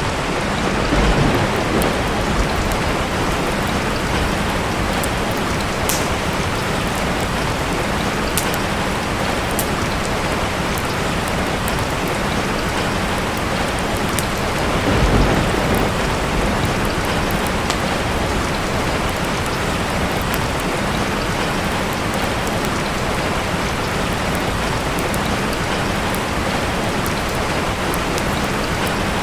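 Steady heavy rain, a dense even hiss. Two brief low rumbles swell up, one about a second in and one around halfway through. Faint sharp ticks are scattered through it.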